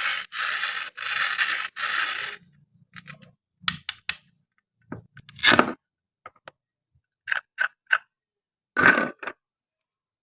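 Toy kitchen pieces being handled: four quick scraping strokes, then scattered light clicks and knocks of small hard toys, one knock louder about halfway through.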